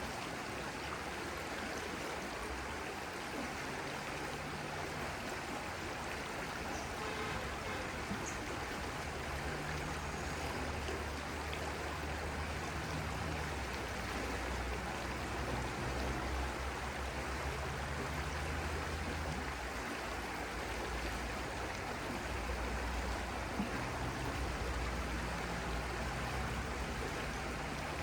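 A stream's running water, a steady even rush, with a low rumble coming and going underneath.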